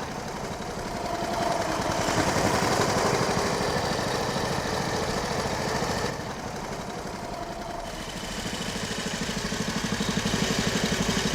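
Motorcycle engine running with a fast, even pulsing beat, growing louder a couple of seconds in, easing off midway and growing louder again near the end.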